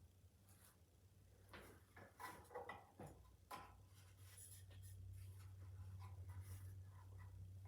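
Faint handling noises: a few light rustles and small knocks, then a low steady hum that comes up about halfway through.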